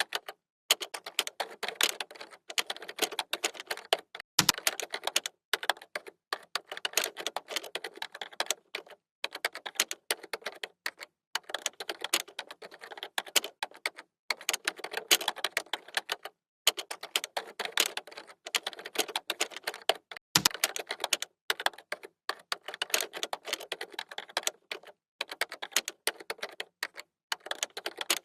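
Computer keyboard typing: rapid runs of key clicks in bursts of a few seconds, broken by short pauses, with two heavier key thumps, about four seconds in and about twenty seconds in.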